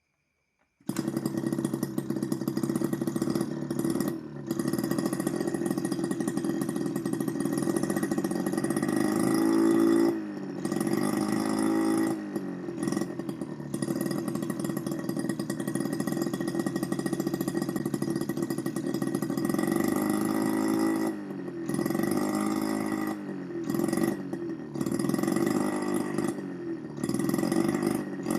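Homemade miniature two-stroke engine, built from a refrigerator compressor, running fast with a buzzing, chainsaw-like note. It starts suddenly about a second in, revs up and down a couple of times, and cuts out for brief moments now and then, more often near the end.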